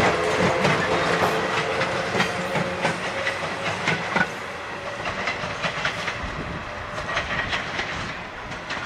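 Metrorail electric multiple-unit commuter train running past, its wheels clicking irregularly over rail joints. The sound fades as the train draws away, dropping noticeably about four seconds in.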